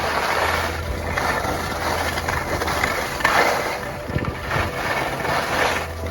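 Skis swishing and scraping across snow in a run of linked turns, one swish every second or so, with background music underneath.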